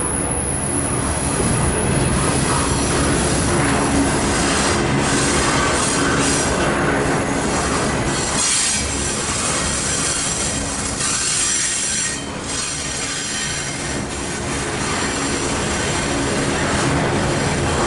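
Union Pacific double-stack intermodal well cars rolling past at close range: a steady rumble of steel wheels on rail, with high-pitched wheel squeal setting in after a few seconds and occasional clatter.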